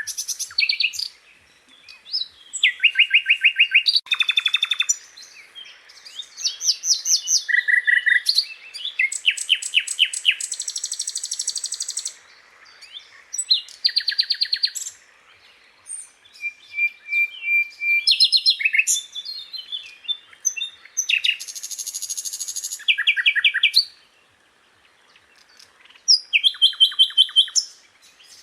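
Sikatan londo, a flycatcher, singing a varied song of rapid trills, buzzy phrases and short whistles, phrase after phrase with short pauses between.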